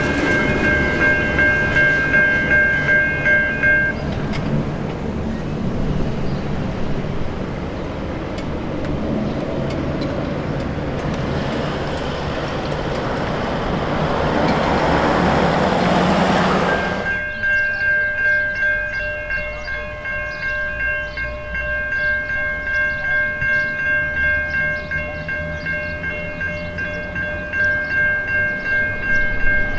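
Level crossing warning bells ringing in an even, pulsing rhythm. For much of the middle a passing train's rushing noise takes over, growing louder before cutting off suddenly, after which the bells are heard again.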